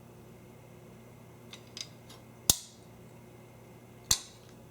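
Fletching clamps being unclipped from a multi-fletcher jig: two faint clicks, then two loud, sharp snaps, one about halfway through and one near the end.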